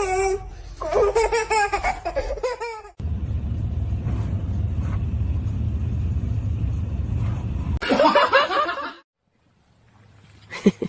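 A person laughing in bursts, then a steady low rumble for several seconds, then more laughter that cuts off suddenly. A brief voice sound comes near the end.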